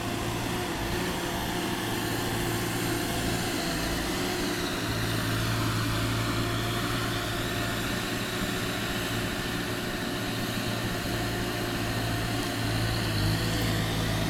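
ASV RC-60 tracked skid steer's Perkins diesel engine running steadily, a constant low hum with no change in speed.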